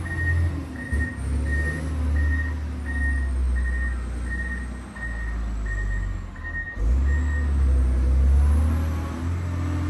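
John Deere 670GP motor grader's diesel engine running, with its reversing alarm beeping about three times every two seconds; the beeping stops about three-quarters of the way through as the grader stops backing up.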